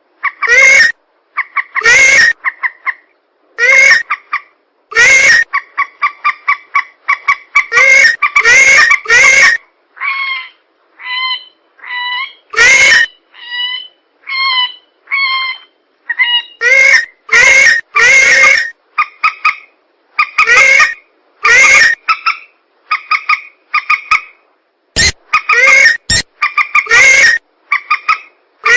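Bird-lure recording of swamp-bird calls, mandar (rail) and pelan, played back as a loop: loud harsh calls in repeated short bursts with hard cut edges, and a stretch of softer, higher, evenly spaced calls in the middle. Two sharp clicks near the end.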